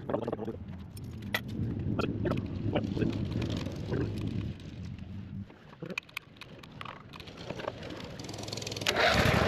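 Small engine running with scattered metallic clinks of tools. Near the end a much louder steady engine sound starts up and keeps going.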